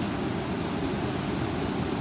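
Strong wind blowing, a steady rushing noise heaviest in the low end.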